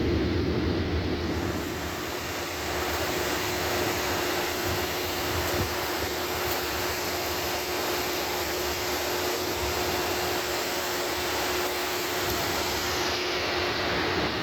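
Severe storm's wind and rain: a steady, dense roar, louder for the first second or so, with a faint steady hum underneath.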